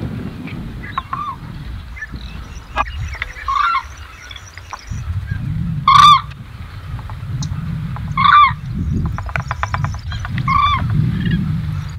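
A large bird calling: a short, pitched call repeated about every two and a half seconds, five times, loudest about six seconds in, over a steady low rumble. A quick run of clicks comes about nine seconds in.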